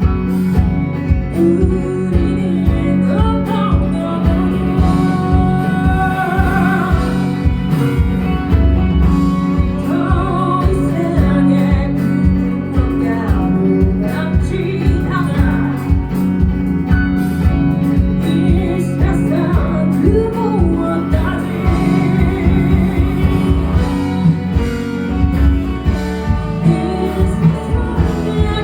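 Live band playing a song with singing over it: a steady drum beat under guitars and a sung melody.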